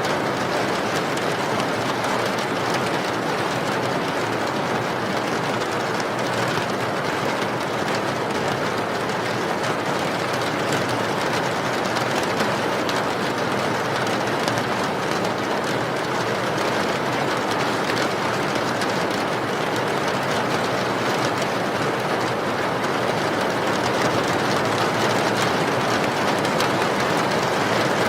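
Steady rain falling: an even, unbroken rushing hiss with faint scattered drop ticks.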